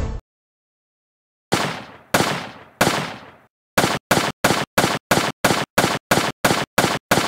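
A series of sharp bangs: three single ones with long fading tails starting about a second and a half in, then a steady run of short, clipped bangs about three a second.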